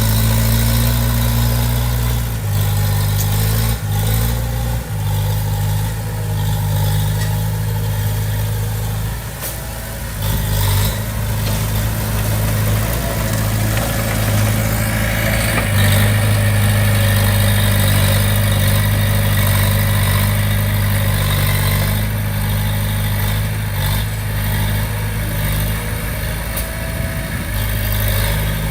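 Komatsu D20P bulldozer's diesel engine running with a steady low drone. The engine note shifts slightly a few times as it works.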